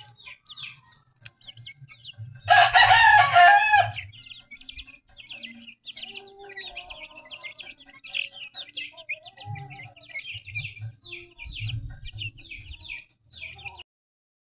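A flock of young chicks peeping constantly in short, high, falling notes. A rooster crows once, loudly, about two and a half seconds in. The sound cuts off shortly before the end.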